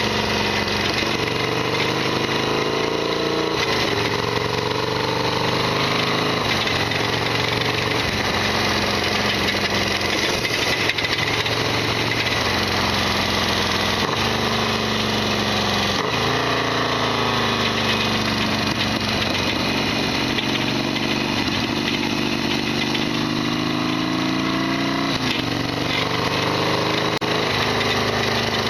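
Harley-Davidson Sportster XL1200R's air-cooled V-twin engine running under way, its revs rising and falling several times. A heavy mechanical rattle runs through it, the rattly racket the owner calls his bike's usual abnormal noise.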